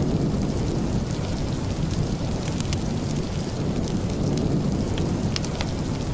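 Steady rain, a dense low rumble, with scattered sharp ticks throughout.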